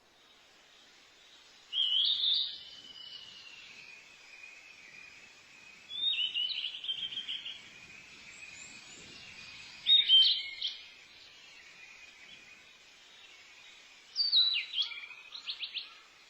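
A songbird singing short, high chirping phrases, four of them about four seconds apart, over a faint steady hiss of outdoor background.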